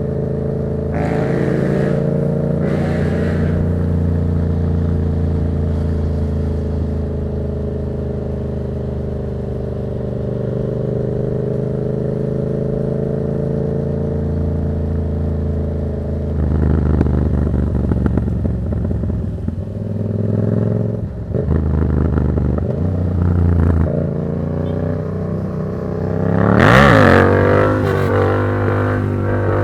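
Yamaha MT-07's parallel-twin engine through an aftermarket Black Widow exhaust, ridden at a steady cruise, then with the throttle opened and closed through the second half and a quick rev that rises and falls near the end.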